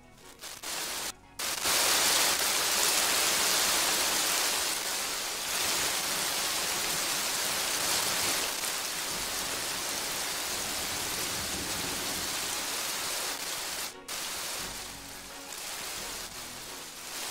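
Heavy rain falling, a steady dense hiss that stops briefly twice where the footage is cut.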